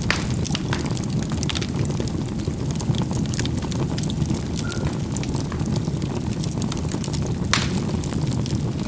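Charcoal burning in a fireplace: a steady low rumble of the fire with scattered crackles and pops, one sharper pop about seven and a half seconds in.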